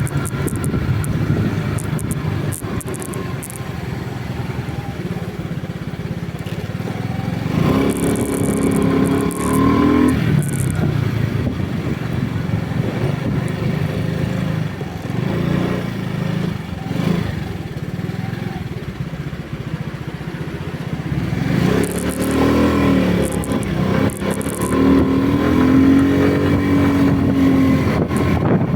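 Vehicle engine running on the road under a steady low rumble. Its note rises in pitch twice: about eight seconds in, and again from about twenty-two seconds in.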